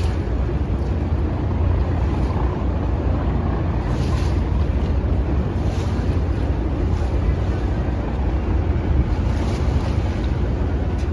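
Ferry under way: a steady low rumble and rushing water noise, with wind on the microphone and a few brief louder swishes.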